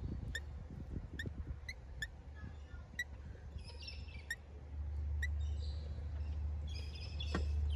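Wild birds chirping: one short rising chirp repeated about two to three times a second, with brief bursts of busier twittering in the middle and near the end, over a low steady rumble that grows louder about five seconds in.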